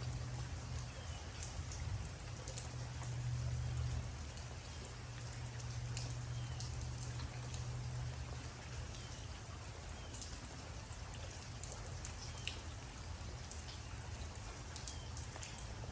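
Steady rain, with individual drops ticking here and there on a surface, over a low rumble that eases a little about halfway through.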